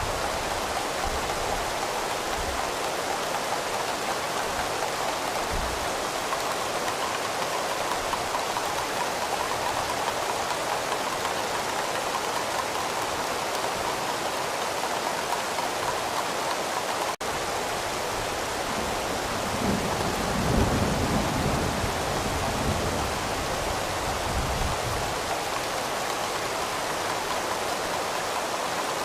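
Steady heavy rain falling, with a low rumble of distant thunder rolling in about two-thirds of the way through. A split-second break in the rain comes a little past the middle.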